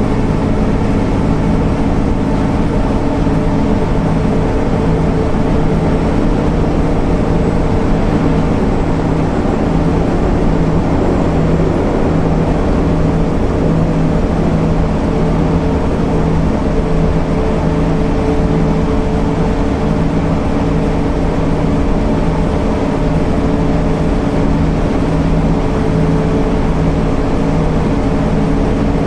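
MAN NL 262 city bus's six-cylinder diesel engine running steadily under way, its drone holding one even pitch.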